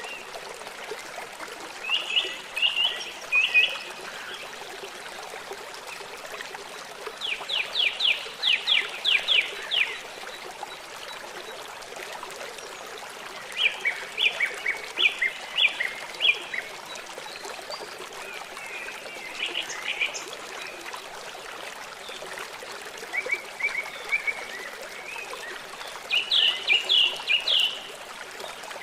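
River water running steadily, with a songbird singing short phrases of rapid repeated chirps every few seconds, about six phrases in all.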